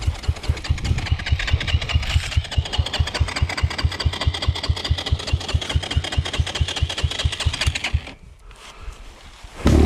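Air-cooled single-cylinder dirt bike engine idling with an even, steady beat, then cutting out about eight seconds in. Music starts right at the end.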